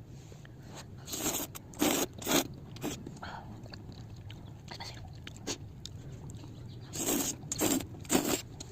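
A person biting and crunching snack food in two runs of a few loud crunches each: one about a second in, one near the end, with chewing in between.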